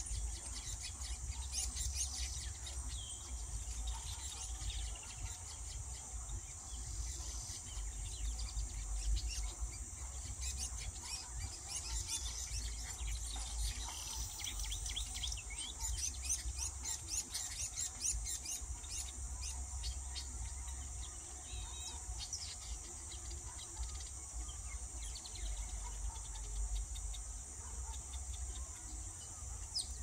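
Many small birds chirping in quick, high-pitched bursts that come and go throughout, over a steady high hiss and a low rumble.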